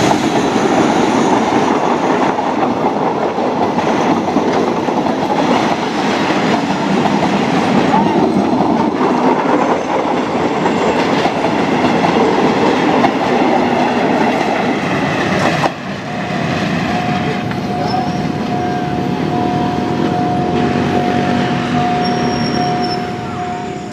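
Passenger train passing close by, its wheels rumbling and clattering on the rails. The loud passing noise cuts off suddenly about two thirds of the way through, leaving a steady high tone over a quieter rumble.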